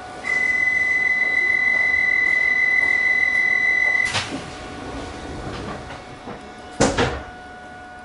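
Train door warning: a steady, high electronic tone held for about four seconds, cut off by a knock as the doors shut, then a heavier thump about three seconds later, over the train's steady electrical hum.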